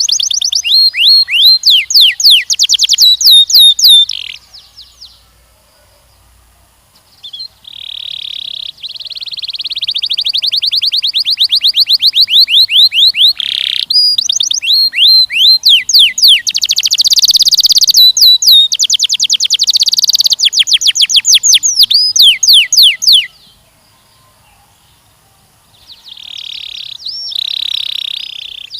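Canary singing long, loud trills of rapid, repeated down-slurred notes, broken by two short pauses.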